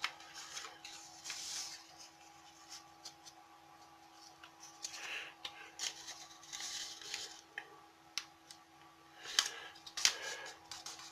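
A square sheet of origami paper being folded and its crease pressed and smoothed with the fingers on a hard surface: soft rustles and scrapes in several bouts, with a few sharp paper clicks, the loudest about nine seconds in.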